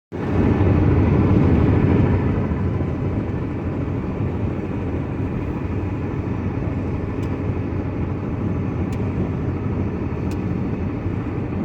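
Steady vehicle rumble on a wet road, louder for about the first two seconds and then even, with a few faint clicks later on.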